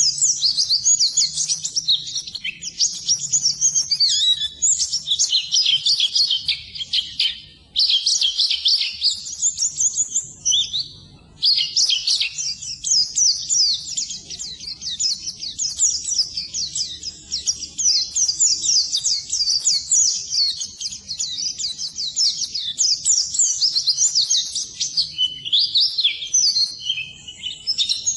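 White-eye (pleci) singing a fast, unbroken twitter of high chirps, pausing briefly about seven and eleven seconds in.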